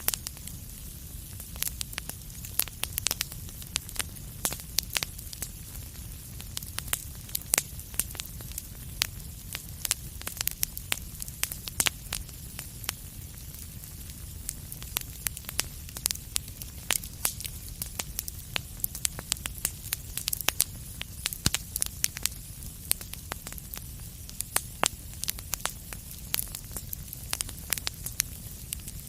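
Wood fire crackling in a fireplace: irregular sharp pops and snaps scattered throughout, over a steady low rumble of the flames.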